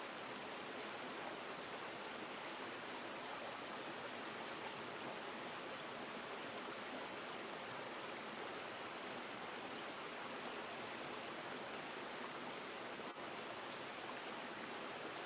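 River water flowing steadily: an even, unbroken rushing with no distinct splashes, briefly dipping for a split second near the end.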